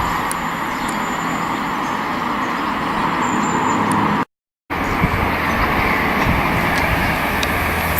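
Steady running noise of a train passing, a broad rush with a low engine drone under it; the sound cuts out completely for about half a second near the middle.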